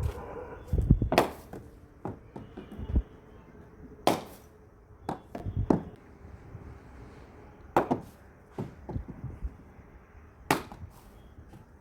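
Sharp cracks of a cricket bat striking the ball, five or so spread a couple of seconds apart, with a few dull low thumps near the start.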